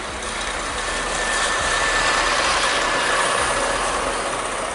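Snow-plough train led by two diesel locomotives passing close by. Engine and wheel noise swells to a peak in the middle and eases off as it goes by.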